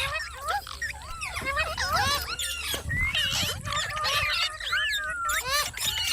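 Parrots calling: a quick, unbroken run of short squawks and chirps, each rising and falling in pitch, often overlapping one another.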